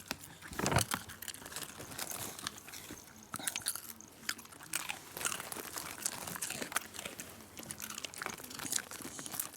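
Shiba Inu crunching and chewing a hard treat: a run of sharp, dry crackles, with a louder crunch about a second in.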